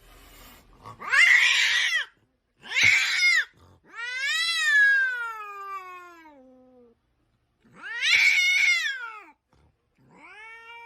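Domestic cat yowling in five long, drawn-out meows, the middle one the longest and sliding down in pitch.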